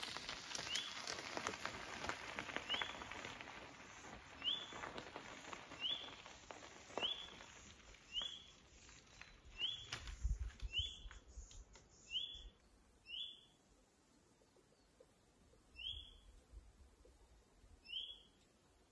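A bird repeating a single short, upward-flicking call about a dozen times, roughly once every one to two seconds. Faint clicks and rustling sit under the first half.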